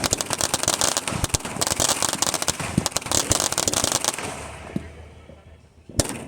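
Fireworks crackling in a dense, rapid string of small pops that dies away about four to five seconds in, then a single sharp bang near the end.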